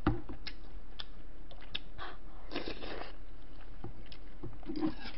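A person chewing tender beef short rib meat from galbitang close to the microphone: wet mouth and chewing sounds with scattered small clicks, densest about halfway through.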